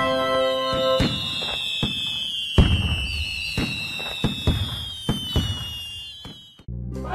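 Fireworks sound effect: long, slowly falling whistles mixed with a string of bangs and crackling pops. The loudest bang comes about two and a half seconds in, and the bangs fade off shortly before the end.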